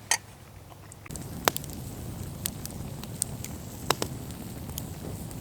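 Campfire crackling, with scattered sharp pops and snaps. It comes in about a second in, after a single click.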